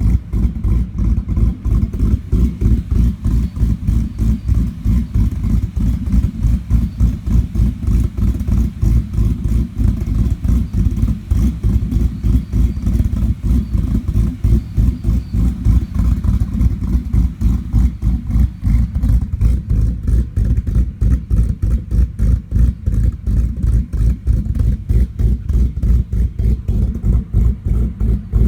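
Cammed, supercharged Ford SVT Lightning V8 idling with a choppy, loping beat from its aggressive Comp camshafts, running on a break-in tune.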